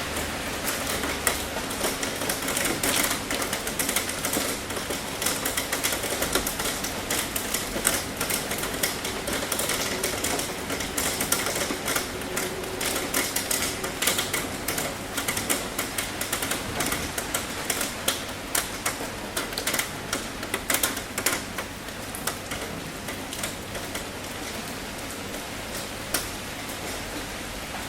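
Heavy rain on a tin roof: a steady hiss with a dense clatter of single drops striking the metal. The hits grow sparser and a little quieter about 22 seconds in.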